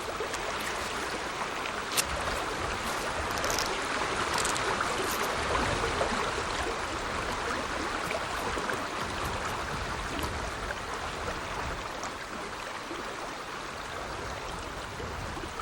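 Steady rushing outdoor noise like running water, slowly swelling and easing off, with a few faint clicks.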